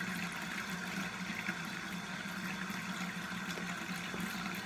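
Bathroom tap left running into a sink: a steady rush of water, with a steady low hum under it.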